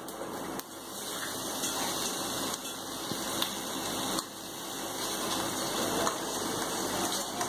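Spiced oil tempering sizzling steadily in a steel kadhai, with a few light clicks of a steel spoon on a steel bowl as mashed boiled raw banana is scraped into the pan.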